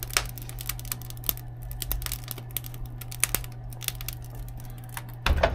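A wood fire crackling in the firebox of a forced-air wood furnace, with irregular sharp snaps and pops. Under it runs the steady low hum of the furnace blower.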